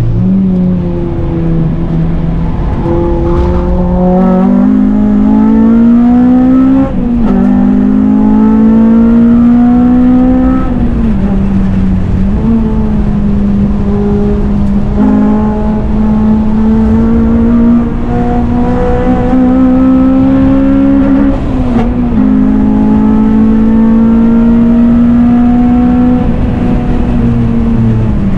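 A Honda Civic Type R's four-cylinder K-series engine (a K20/K24 hybrid) running hard on track, its note climbing slowly and dipping sharply several times as it lifts or changes gear.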